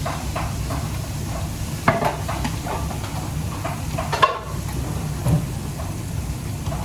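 A utensil knocking and scraping in a pan about two or three times a second, with two louder knocks about two and four seconds in, over a steady low rumble.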